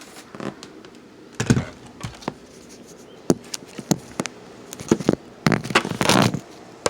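Handling noise from a camera being moved and set in place: irregular knocks and clicks, a sharper knock about a second and a half in, and a longer rustle near the end.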